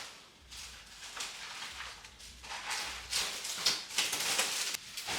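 Rustling and scraping from handling a cricket cage and a trash bag while cleaning the cage out: a string of short scuffs and rustles, busier and louder in the second half.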